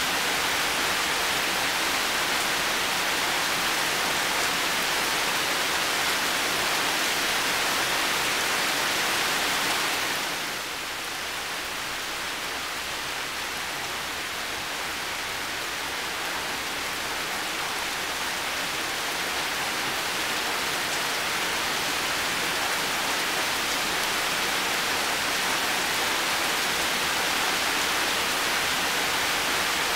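Heavy rain falling steadily, a dense even hiss of drops. About ten seconds in it eases a little, then slowly builds back to full strength.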